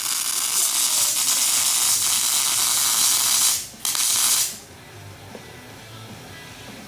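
MIG welding arc crackling and hissing while brackets are welded onto a steel axle housing. It breaks off briefly, starts again, then stops for good about four and a half seconds in.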